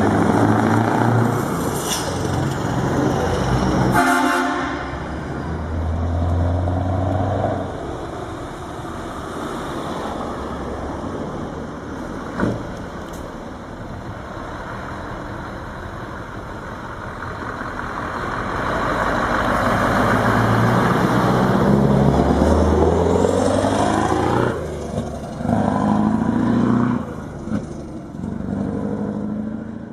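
Diesel vehicle engines running and revving, rising and falling in pitch, with sudden changes where one clip cuts to the next.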